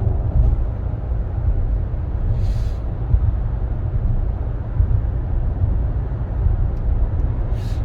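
Cabin noise of a SsangYong Torres SUV being driven: a steady low road and tyre rumble. Two brief hisses come about two and a half seconds in and near the end.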